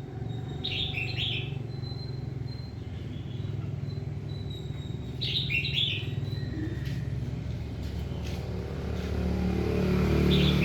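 A small bird sings short chirping phrases three times, about every four and a half seconds, over a steady low engine-like rumble that swells near the end.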